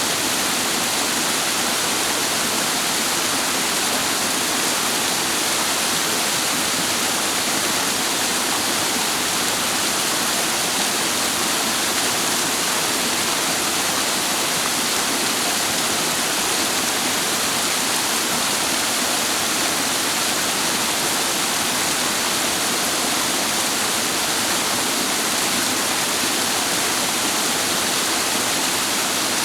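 Clear mountain stream water rushing steadily over rocks, a constant, even hiss of flowing water.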